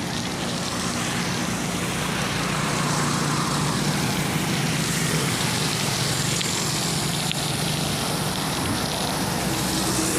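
Steady wind and road noise on a moving bicycle, with motor traffic running alongside.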